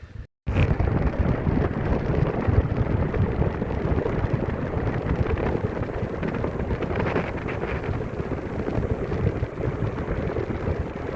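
Wind buffeting the microphone of a bicycle rider speeding downhill: a loud, steady rush of noise that cuts in abruptly just after the start.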